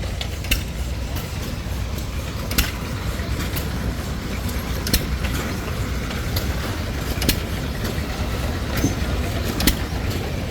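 5 hp Lister ball-top stationary engine running a drag saw: a steady low rumble with a sharp crack about every two and a half seconds.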